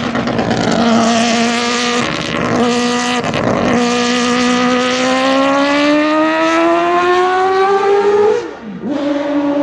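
Historic racing car engine pulling out of a slow corner: steady at first with brief breaks, then rising steadily in pitch as it accelerates, with a sudden drop near the end at a gear change.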